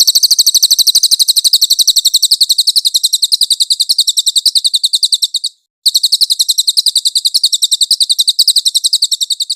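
Cililin bird song: a rapid, even trill of high, clear chirps, about ten a second, in two long phrases with a brief break a little past halfway.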